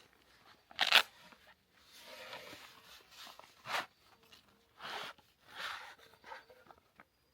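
Several short rustling, scraping noises of something being handled, the loudest about a second in.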